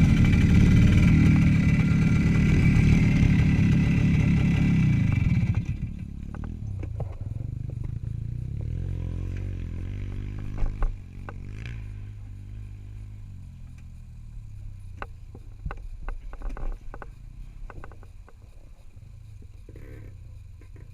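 Motorcycle engine running under throttle, then dropping to idle about five and a half seconds in. It idles with a low steady hum while scattered clicks and knocks sound, and grows quieter in the second half.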